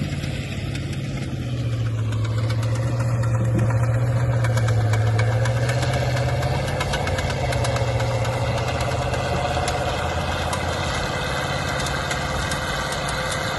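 Engine of a heavy tracked tractor running steadily while pulling a drag, growing a little louder about two seconds in.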